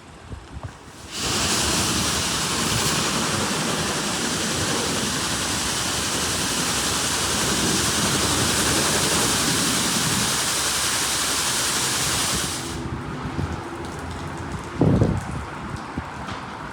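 LaserWash G5 touch-free car wash spraying water onto the car: a loud, even hiss of water starts about a second in and cuts off suddenly after about eleven seconds. A thump follows a couple of seconds later.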